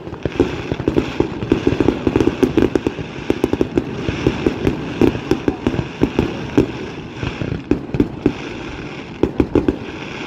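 Aerial fireworks going off in quick succession: a dense run of sharp bangs and crackling reports, several a second.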